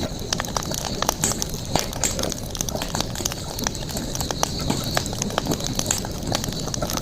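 Campfire crackling, with many sharp, irregular pops and snaps over a steady high-pitched hiss.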